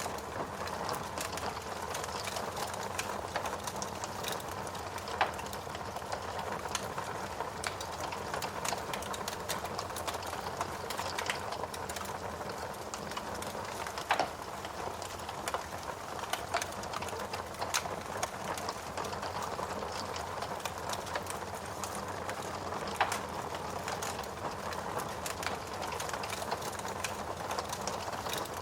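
Wood fire in a fireplace burning steadily: a constant hiss under frequent small crackles, with a few louder pops and snaps spread through.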